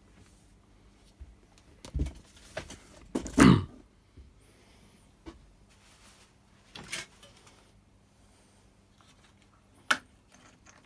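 Scattered knocks and clicks of plastic parts and tools being handled while a backpack leaf blower is taken apart, with a louder clunk about three and a half seconds in and a sharp click near the end.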